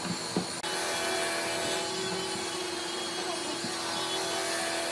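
Electric power tool motor running steadily with a constant hum, starting abruptly just over half a second in. It is preceded by a couple of light knocks.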